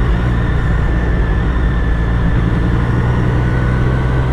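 Triumph Street Triple S 765 cc inline-three motorcycle engine running at a steady pace while riding, heard from the rider's helmet together with wind and road noise.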